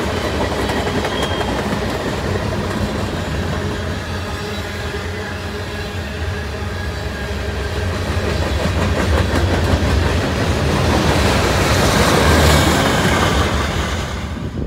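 Freight cars of a mixed manifest train rolling past on the rails, a steady wheel-on-rail noise that gets louder a few seconds before the end as the last cars go by.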